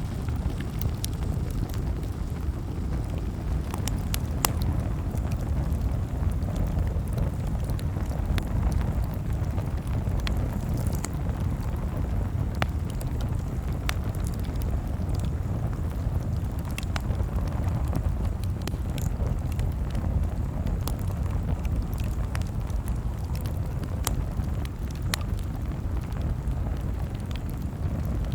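Campfire crackling: irregular sharp pops and snaps scattered over a steady low rumble.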